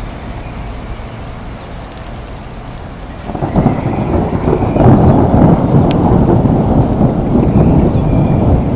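Steady rain with a low rumble of thunder; about three seconds in, a loud roll of thunder swells up and keeps rolling.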